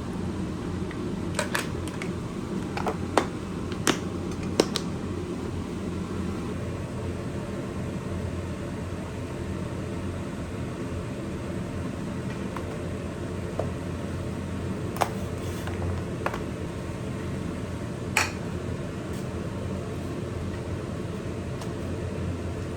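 Steady low mechanical hum, like a running fan, with a handful of short sharp clicks and knocks over it: several in the first five seconds, and a few more about two thirds of the way through.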